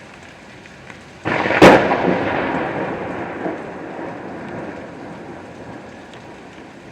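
A sudden thunderclap about a second in, with a sharp crack, then a rumble that fades slowly over several seconds, over steady rain.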